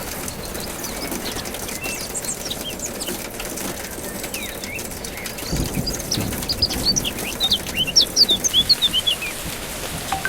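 Birds chirping over a steady hiss of rain. Short, sharp high chirps come scattered at first, then crowd into a quick, louder run in the second half.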